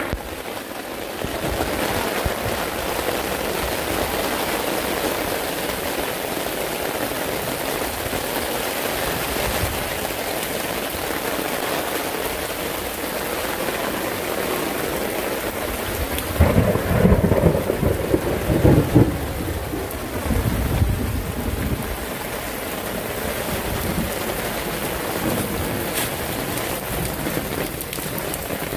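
Heavy rain falling steadily in a thunderstorm, with a louder low rumble of thunder about two-thirds of the way in.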